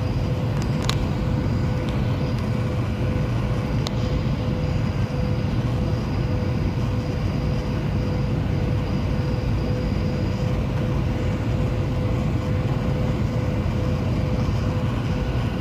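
Steady cabin noise of a Boeing 737-900ER jet airliner heard from inside the cabin: a constant low rush of engines and airflow with a steady hum. Two faint clicks sound in the first few seconds.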